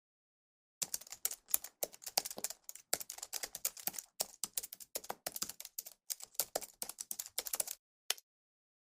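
Keyboard typing: a quick, uneven run of key clicks starting about a second in, then a short pause and one last keystroke near the end.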